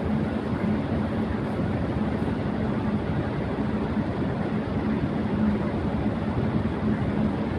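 Electric fan running at high speed: a steady rush of air with a constant low hum.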